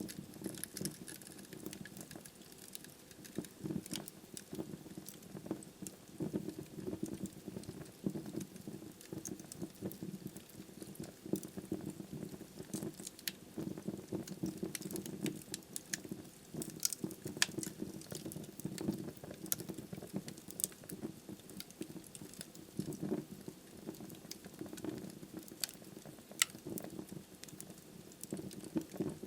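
Wood fire burning in a fireplace: a steady low rush of flame with frequent small, irregular crackles and pops from the burning logs, and now and then a sharper snap.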